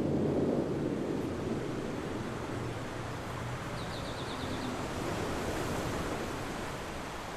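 A steady, rushing low rumble that continues without a break, with a faint run of small ticks about halfway through.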